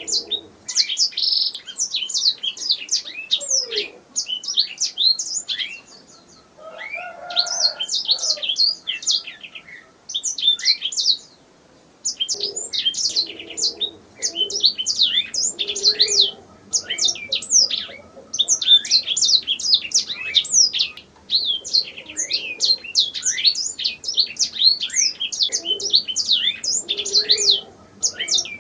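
Canary singing: fast trilled phrases of quick, high, downward-sweeping notes, each phrase a couple of seconds long with short pauses between.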